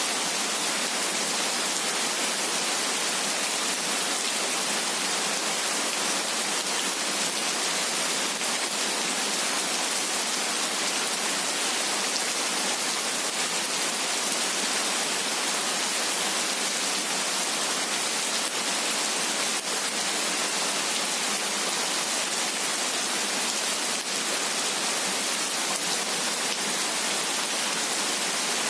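Steady rain falling, an even, unbroken hiss weighted to the high end with almost no low rumble and no thunder.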